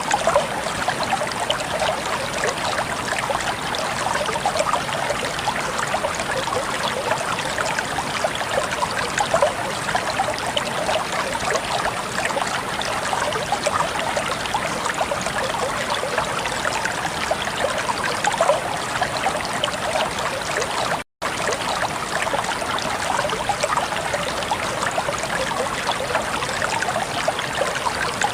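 Shallow stream water flowing and babbling steadily, a dense patter of small splashes and trickles. It cuts out completely for an instant about three-quarters of the way through.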